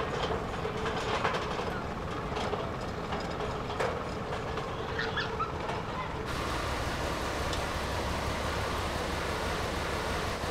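Narrow-gauge sugar-cane railway train in a mill yard: a steady rumble with a few sharp clicks. The sound changes abruptly about six seconds in.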